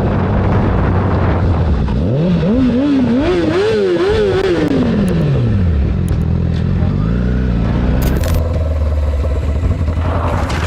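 Motorcycle engine running, its revs climbing in several quick surges about two seconds in, then falling away steadily before it settles back to a low steady run.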